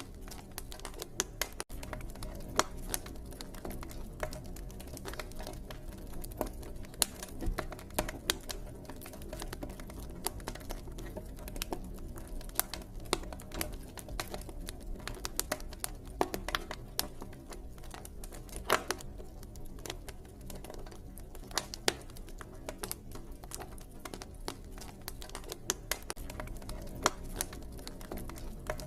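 Wood campfire crackling steadily, with frequent small irregular pops and snaps over a low, even rumble of the flames.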